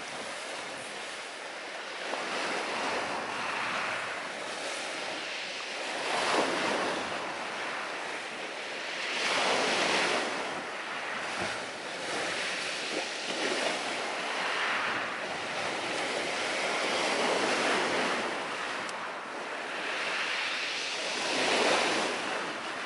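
Sea surf washing ashore, the rush of the waves swelling and falling back in slow surges every few seconds.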